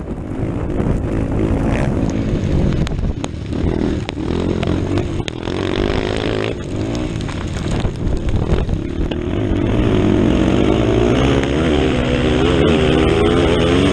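Motocross motorcycle engine at race throttle, its pitch rising and falling again and again as the rider works the throttle and gears, with short knocks along the way; it gets louder and steadier in the last few seconds.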